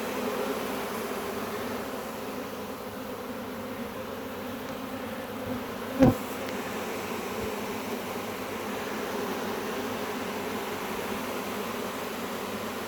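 Honey bee swarm buzzing, a steady low hum from many bees, with one sharp knock about six seconds in.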